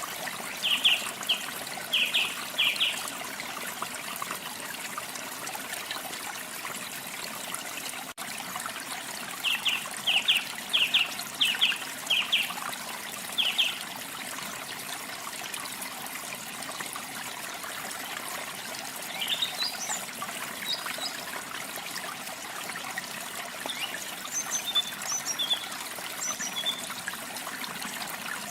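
Steady rush of running water from a waterfall with songbirds singing over it. There are two bursts of short, rapidly repeated notes, one near the start and one about ten seconds in, then higher, thinner chirps scattered through the second half.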